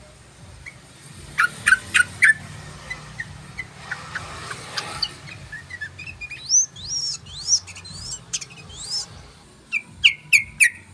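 Yellow-vented bulbul (trucukan) calling: three loud, sharp chirps about two seconds in, scattered short notes, then a quick run of rising and falling whistled phrases in the middle, and three more sharp chirps near the end. A faint steady low hum runs underneath.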